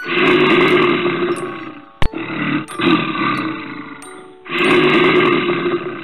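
A bear growling: three long, rough growls, one after another. Light background music with chiming tones runs underneath, and a sharp click comes about two seconds in.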